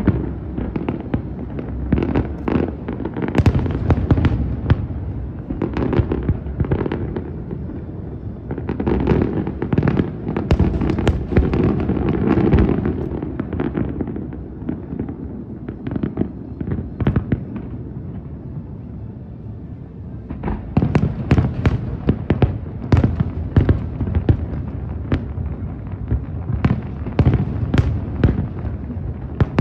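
Large aerial fireworks display: a continuous barrage of shell bursts booming and echoing, easing off about halfway through, then rapid volleys of sharp crackling reports near the end.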